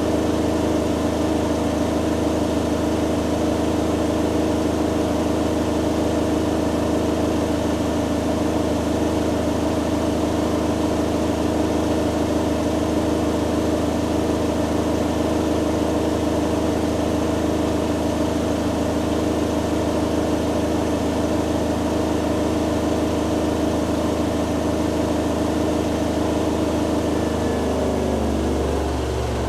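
Hoover Dynamic Next DXA610IW3 washing machine on its spin cycle, the drum spinning at high speed with a steady motor whine and hum. Near the end the pitch starts to fall as the spin begins to slow down.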